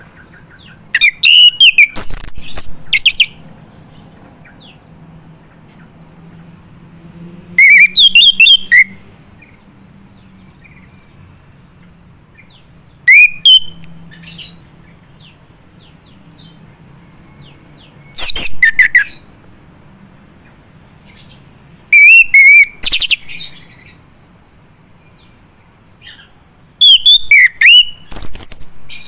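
Male chestnut-capped thrush (anis kembang) singing: six short, loud phrases of high, rapidly changing notes, one about every five seconds.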